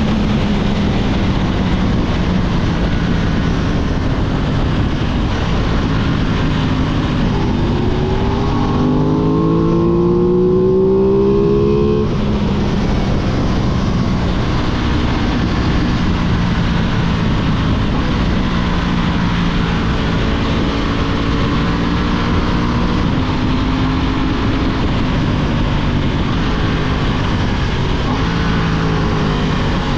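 Aprilia 660 parallel-twin motorcycle engine running under way over steady wind rush. About eight seconds in it pulls harder and its pitch rises. It drops suddenly about twelve seconds in, as at a gear change, then settles back to a steady note.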